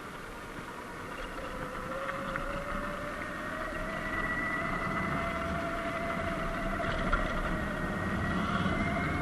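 Sur-Ron Light Bee X electric dirt bike's motor whining, its pitch rising steadily as the bike gathers speed, over rumbling tyre and wind noise.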